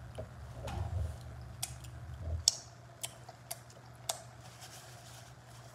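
Close-up eating sounds: chewing, with a handful of sharp wet mouth smacks and finger-licking clicks about half a second apart.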